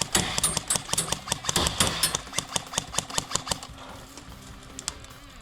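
Airsoft rifle firing in rapid, evenly spaced shots, a fast train of sharp cracks that dies away after about three and a half seconds.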